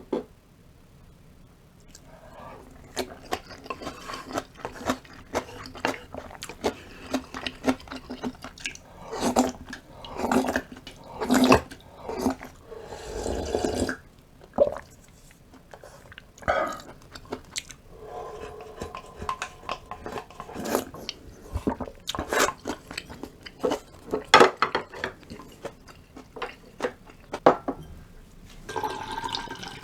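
Close-up eating sounds: chewing with many small wet clicks of the mouth and of utensils tapping dishes, and a longer slurp-like rush about 13 seconds in.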